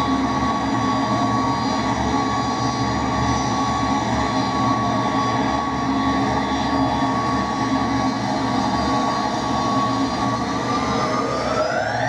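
McDonnell Douglas DC-10's three turbofan engines running with a steady whine, which starts rising in pitch in the last second or so as the engines spool up for takeoff.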